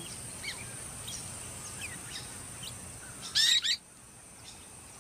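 Golden-shouldered parrot calling: scattered faint chirps, then a loud burst of quick warbling calls a little past three seconds in, the male signalling to the chicks in the nest mound that it is mealtime.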